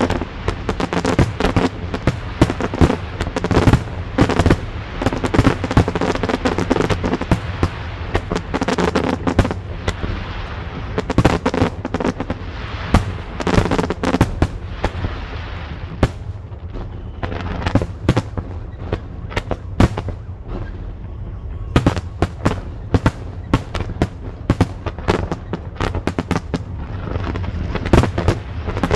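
A fireworks display: many sharp bangs and crackles in rapid succession, thinning out just past halfway and picking up again with a dense run of bursts near the end.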